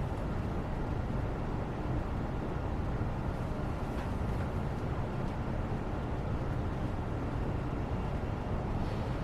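Steady, low-pitched background noise, an even rumble without tones or rhythm, with a couple of faint soft sounds higher up near the middle and near the end.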